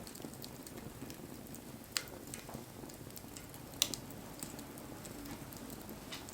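Wood fire burning with a steady low rush and scattered crackles. Two sharper pops come about two seconds in and just before four seconds.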